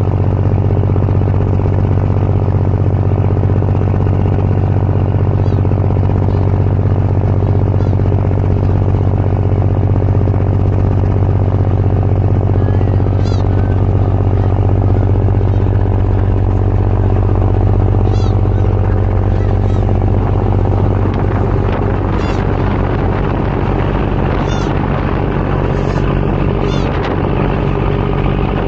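Car-ferry diesel engines droning steadily with a deep, even hum. Short high-pitched bird calls come in a few times, more often near the end.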